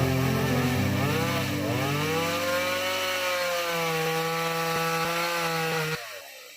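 Chainsaw cutting wood, its engine pitch dipping and recovering as it works, then cutting off sharply about six seconds in.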